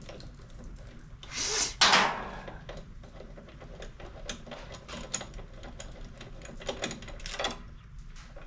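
Small metal clicks and clinks of a spark plug socket wrench as the spark plug is worked out of a Honda GCV200 mower engine, with two louder bursts of noise about a second and a half in.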